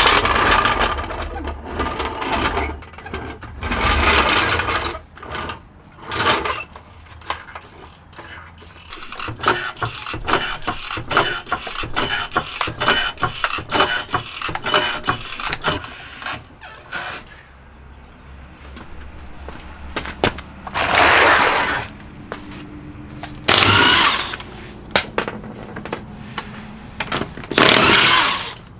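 Hand tools and parts being handled on a car in a garage: a run of quick clicks, clinks and knocks, broken by three short loud rushing noises near the end.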